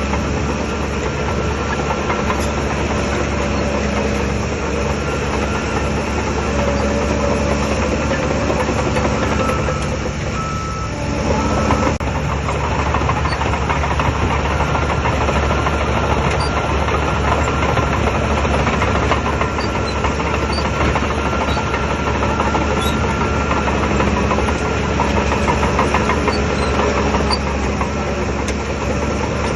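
Shantui DH17 crawler bulldozer's diesel engine running steadily at work, easing off briefly about ten seconds in before picking up again.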